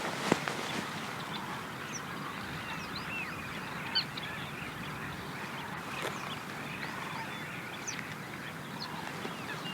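Birds chirping and calling, many short chirps scattered over a steady background hiss, with a few sharp knocks, the loudest about four seconds in.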